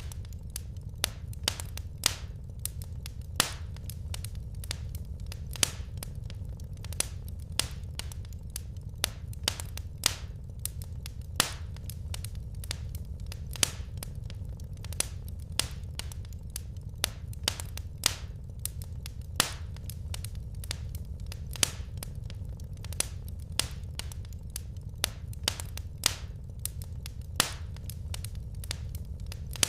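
Firewood burning in a fireplace, crackling: irregular sharp snaps and pops, several a second with an occasional louder one, over a steady low rumble of the fire.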